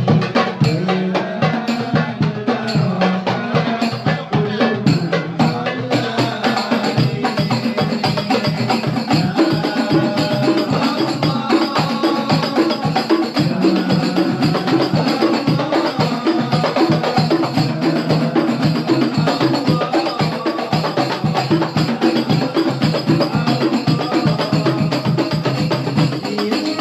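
Banjari ensemble of darbuka goblet drums played together in a fast, dense rhythm, the pattern changing about six seconds in and repeating pitched drum tones thereafter.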